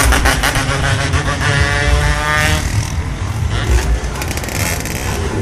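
Motorcycle engines running on the street under a heavy low rumble. One bike revs up, rising in pitch, until about two and a half seconds in, then drops away.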